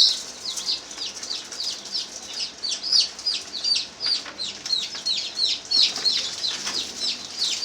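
Many poultry chicks peeping together, a steady chorus of short, high, falling peeps overlapping one another.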